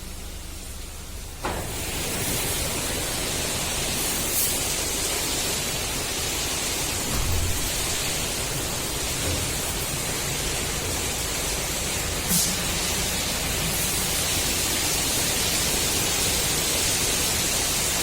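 Shuttle-type automatic car wash machine at work: a steady loud hiss that comes up sharply about a second and a half in, with two brief louder spurts about 4 and 12 seconds in.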